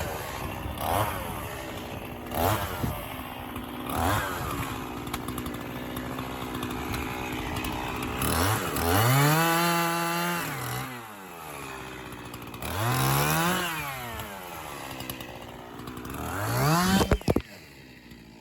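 50cc two-stroke Echo CS-501P chainsaw blipping its throttle in a few short revs, then three longer revs that rise and fall in pitch between stretches of idle, each a second or two long. A brief clatter about a second before the end, after which the sound suddenly drops away.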